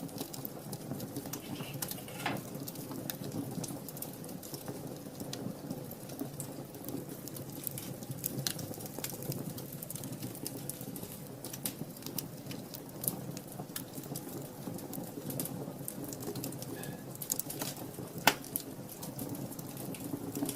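Wood fire burning in a fireplace: a steady low rumble with constant small crackles, and one louder pop near the end.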